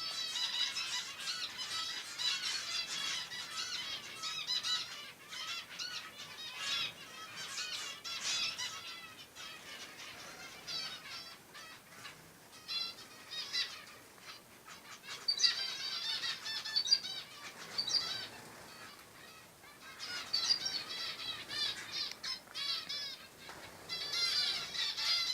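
Many small songbirds chirping and twittering at once, overlapping high calls that come in louder bursts with quieter spells in between.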